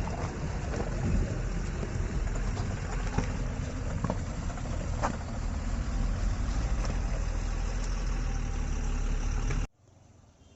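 Tata Altroz driving over rough ground: a steady low rumble of engine and tyres, with a few knocks and rattles. It cuts off suddenly near the end.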